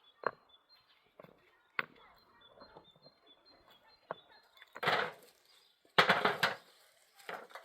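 A few sharp knocks, then two louder crunching bursts about a second apart, the second the loudest.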